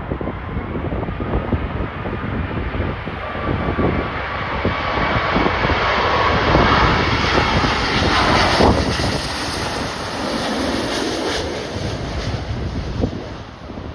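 Jet airliner passing close by, its engine noise swelling to a peak about eight seconds in and then fading, with strong gusting wind buffeting the microphone.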